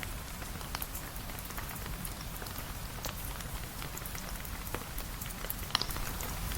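Steady rain hissing, with scattered sharp crackles and pops of a wood fire, the loudest one near the end.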